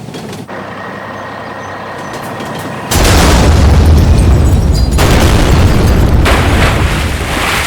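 Cartoon sound effect: a steady machine-like hum, then about three seconds in a sudden loud boom that carries on as a rushing roar with a deep rumble, surging again twice and easing off near the end.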